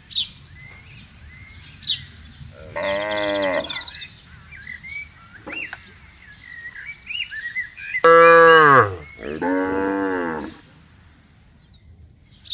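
Cows mooing: one moo about three seconds in, then two close together past the middle, the first of these the loudest, its pitch dropping at the end.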